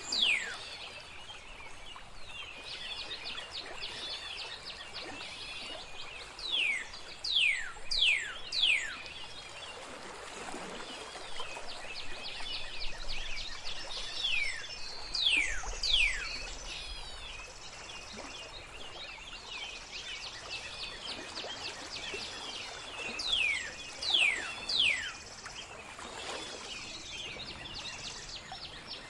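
Birds singing over trickling water: loud downward-sliding whistles come in groups of three or four about every eight seconds, over continuous high twittering from other birds.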